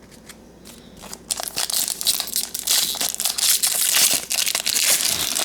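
A trading card pack wrapper being torn open and crinkled in the hands, a dense crackling that starts about a second in.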